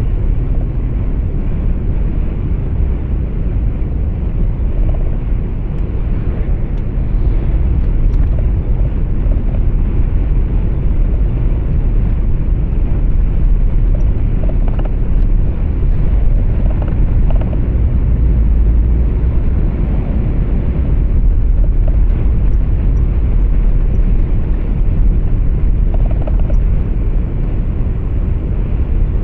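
Truck driving on the road, heard from inside the cab: a steady low rumble of engine and tyre noise.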